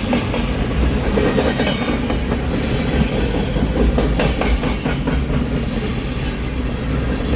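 Freight train cars rolling past with a steady rumble, their wheels clacking over the rail joints, the clacks thickest around the middle.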